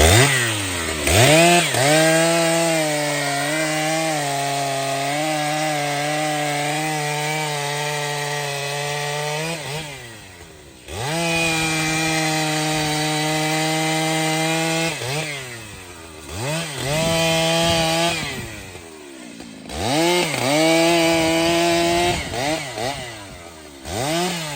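Large two-stroke chainsaw cutting through wood at full throttle, its pitch holding steady under load. The throttle is released twice, letting the saw drop back, and it is revved up again for further cuts with several short blips near the end.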